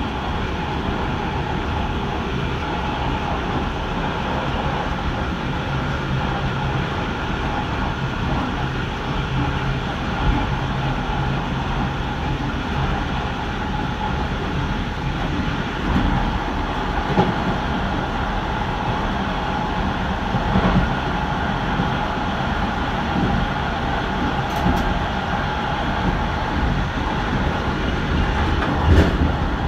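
Electric passenger train running along the line, heard from inside the rear of the train: a steady rolling rumble with a faint steady whine and a few short knocks from the wheels.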